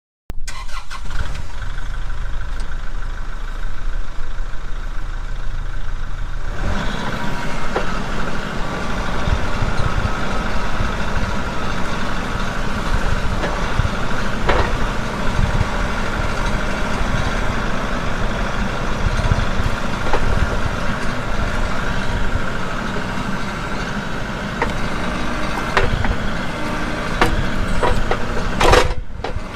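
Wood-Mizer sawmill engine running steadily; about six and a half seconds in its sound becomes fuller and heavier.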